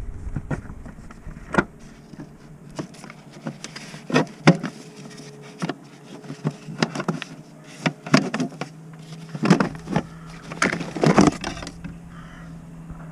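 Irregular knocks and clinks of hand tools and metal parts being handled. A steady low hum joins about nine seconds in.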